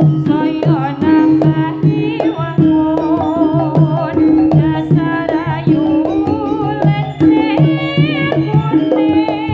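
Javanese jaranan music: kendang hand drums beating a busy rhythm under pulsing gamelan tones and a wavering melody line.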